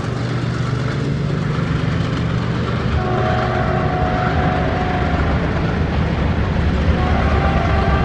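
Train running past on the line with a steady low rumble that grows slightly louder. The locomotive's horn sounds a held blast about three seconds in, lasting around two seconds, and starts again near the end.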